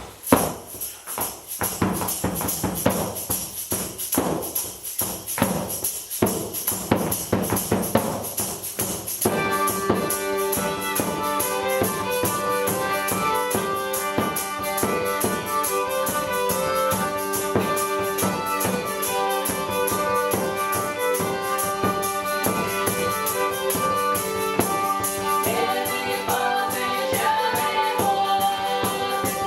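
Small folk ensemble playing a traditional Russian instrumental tune. It opens with a rhythmic percussion beat and a few pulsing notes, and about nine seconds in the full ensemble comes in with sustained notes.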